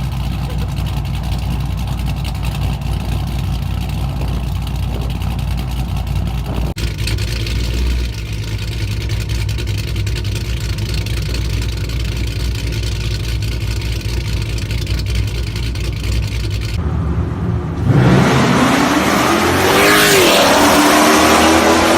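Cammed 6.1 Hemi V8 of a Chrysler 300 SRT8 with a loud aftermarket exhaust, rumbling at idle across a few spliced clips. Near the end it revs up hard, with the pitch climbing and the level jumping.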